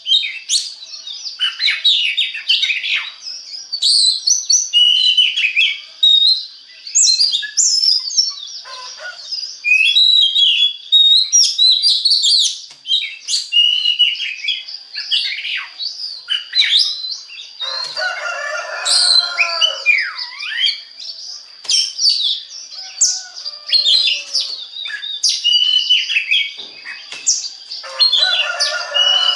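Oriental magpie-robin (kacer) singing a long, varied song of quick whistled phrases and slurred notes, with harsh raspy notes mixed in twice: about two-thirds of the way through and near the end.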